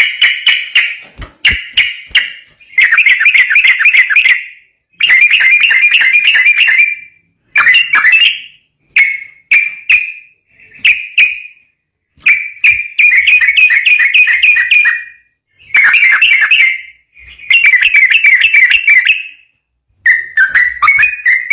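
Yellow-vented bulbul (trucukan) singing in rapid, repeated bursts: about ten quick bubbling phrases of one to three seconds each, with short pauses between them.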